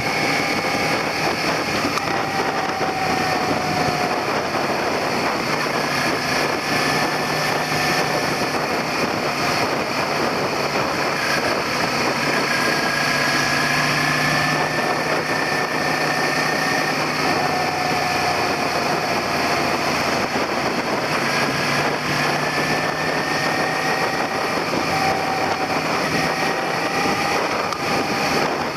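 Suzuki SV400's V-twin engine running while the bike is under way, with steady wind and road noise. The engine pitch drifts gently up and down with speed.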